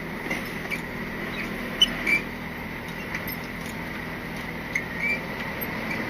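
Inside a Scania R450 lorry cab on the move: steady engine and road noise, with a few short high squeaks and a sharp click about two seconds in.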